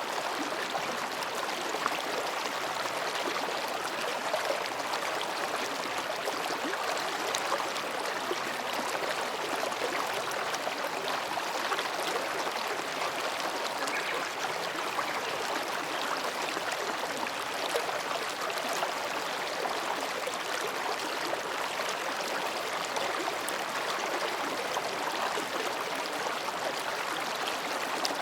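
Mountain stream babbling steadily over and between rocks, an even rush of water.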